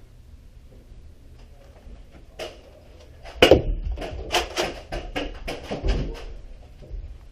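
Nerf Rival Apollo blasters firing and foam balls striking, heard as sharp clacks and knocks. After a quiet start there is one loud crack about three and a half seconds in, followed by a rapid run of about a dozen more over the next three seconds.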